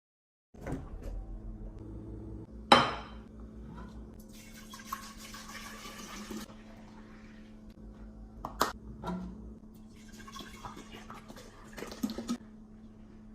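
Kitchen containers being handled while restocking a fridge: a sharp clink as one is set down about three seconds in, liquid pouring into a container for about two seconds, another knock, then a second pour near the end.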